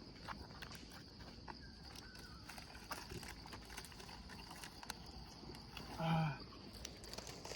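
Quiet outdoor ambience with a steady high-pitched insect drone and scattered small clicks and rustles. About six seconds in, a single short voiced sound, like a brief grunt or hum, stands out as the loudest moment.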